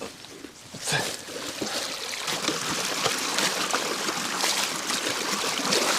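Pond water starts pouring out through a drainage gap in a sandbag dam as the sandbag is pulled out. There is a short splash about a second in, then the flow builds into a steady rushing stream.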